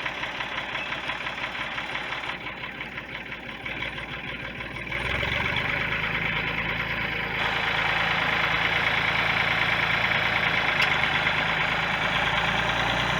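Farm tractor engine running steadily while planting, growing louder about five seconds in.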